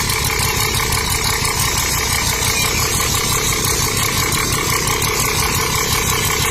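A small engine or motor running steadily at an even level, an idling-type drone with a fine rapid rattle.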